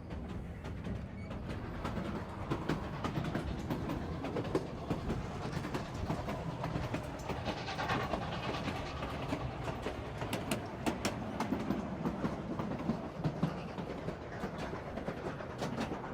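Narrow-gauge passenger car rolling along the rails: a steady low rumble with frequent clicks and rattles from the wheels and the car.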